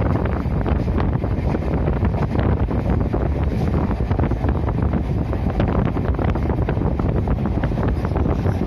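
Wind rushing over the microphone over the steady low rumble and fast clatter of a moving train.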